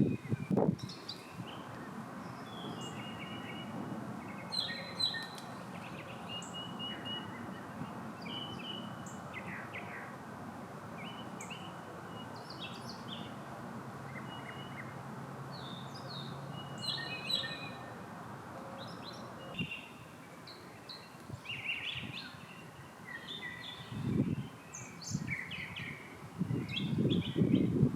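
A northern mockingbird sings a long string of short, varied phrases, and other birds chirp. A steady low hum underneath stops about two-thirds of the way through, and a few louder low noises come near the end.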